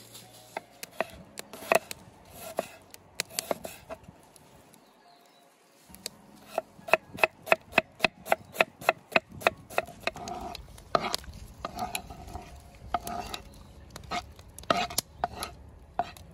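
Knife chopping on a cutting board: a series of sharp strokes, with a short pause near the middle, then a quick even run of about four a second, then slower uneven strokes.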